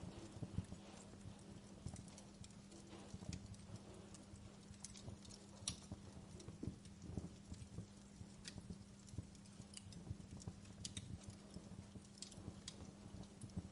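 Wood fire crackling in a fireplace: faint, irregular sharp pops and snaps over a low steady hum.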